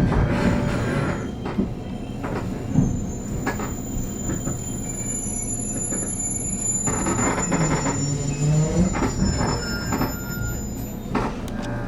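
JR Kyushu 813 series electric train running, heard from inside the car: a steady rumble of wheels on rail with thin, high squealing tones from the wheels. About seven seconds in, a pitched motor whine dips in pitch and then climbs again.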